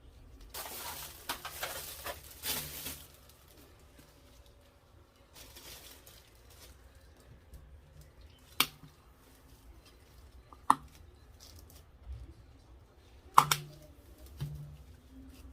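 Handling noises on a work table: about two seconds of rustling and scraping near the start, then three sharp taps of objects being set down, spaced a couple of seconds apart.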